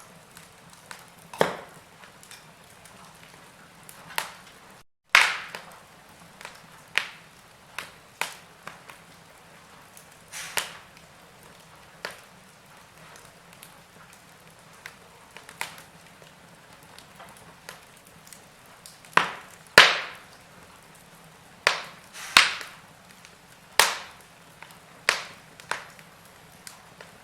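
Wood fire crackling, with irregular sharp pops and snaps from the burning logs over a faint steady background; the loudest pops come about five seconds in and near twenty seconds in.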